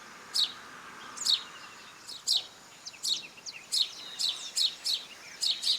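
House sparrows chirping: about a dozen short, sharp chirps, coming closer together in the second half.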